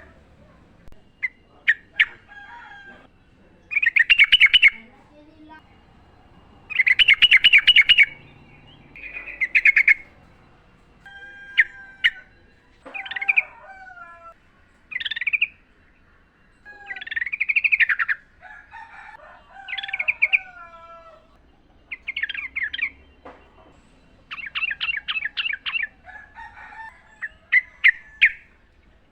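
Yellow-vented bulbul (trucukan) singing: short bubbly, chattering phrases repeated every couple of seconds, some with quick trills.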